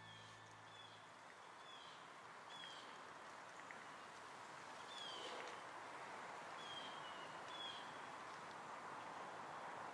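Faint outdoor ambience: a steady soft hiss with a small bird chirping, short high slightly falling chirps repeated every second or so.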